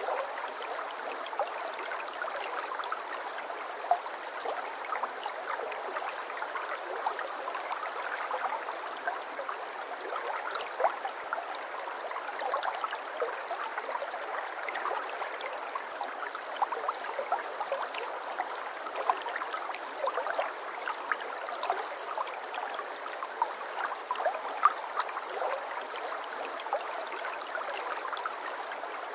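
A small babbling brook, its water running steadily over stones, with many small splashes and gurgles scattered through it.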